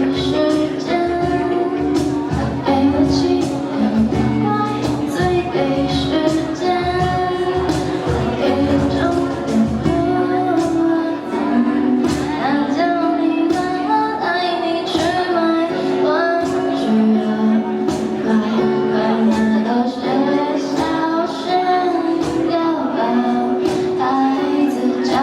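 Live band performance: a woman singing lead over guitar, with a drum kit beating out a steady rhythm.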